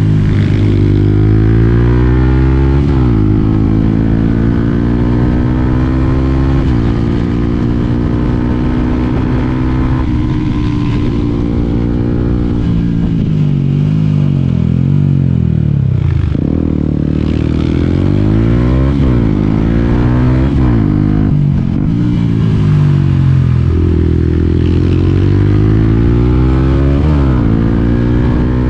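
Yamaha WR125X's single-cylinder four-stroke engine pulling under throttle. Its pitch climbs and drops back sharply over and over as it shifts up through the gears. It winds down around the middle, then accelerates and shifts up again.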